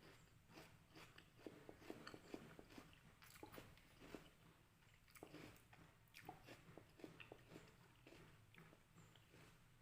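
Faint close-up chewing of crisp red water apple (jambu air): a steady run of small irregular wet crunches and mouth clicks.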